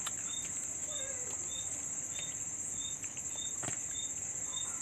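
Steady high-pitched chorus of crickets, with a second insect chirping in short, evenly repeated notes a little under two a second. A single sharp click about three-quarters of the way through.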